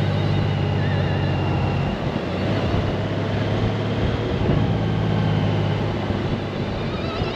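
Honda Gold Wing's flat-six engine running steadily under way. Its note drops about two seconds in and picks up again a little past halfway.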